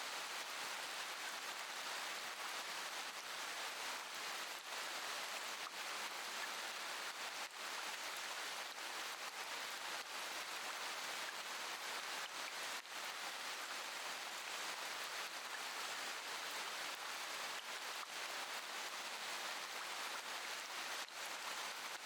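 Steady rain, an even dense hiss with no thunder.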